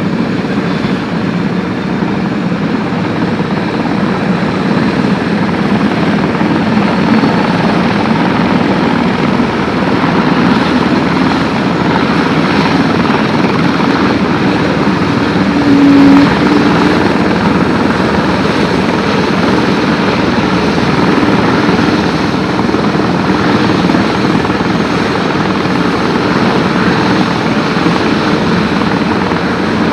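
Airbus H145 (BK117 D-2) helicopter running close by: a loud, steady rush of rotor and turbine noise with a low hum, briefly louder for a moment about sixteen seconds in.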